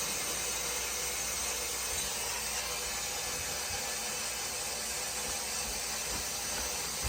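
Steady hiss of water running through the fill line into an oil-fired boiler while it refills, so that the low-water cutoff can sense water and let the burner fire.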